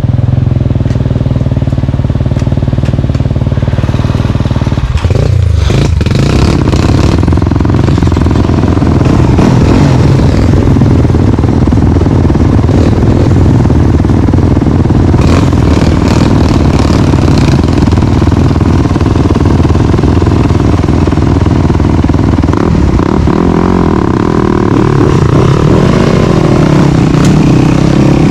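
Dirt bike engine running continuously while ridden on a trail, its revs changing a few times, with knocks and rattles mixed in.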